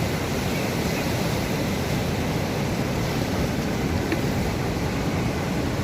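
Steady rush of sea surf, with wind noise on the microphone.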